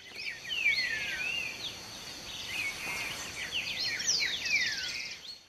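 Several birds singing and chirping, with quick whistled notes that sweep down and up in pitch and a short fast trill about four and a half seconds in, over a steady hiss.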